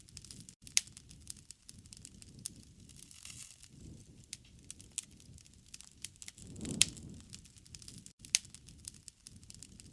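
Wood fire crackling, with irregular sharp snaps and pops (the loudest about a second in and near the end) over a soft low rushing of flame that swells twice.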